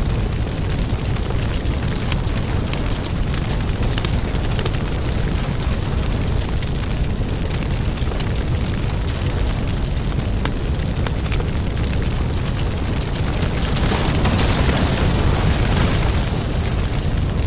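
Wood fire in a fireplace crackling steadily over a low rumble, with many small pops and a louder hissing surge about fourteen seconds in.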